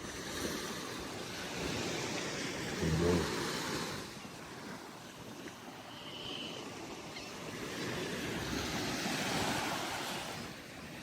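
Gentle ocean surf washing onto a sandy beach, swelling and easing off twice. A brief low hum comes about three seconds in.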